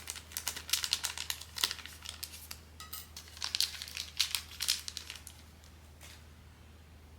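Plastic blind-box packaging crinkling in quick clusters of crackles while being handled and opened, stopping about five and a half seconds in.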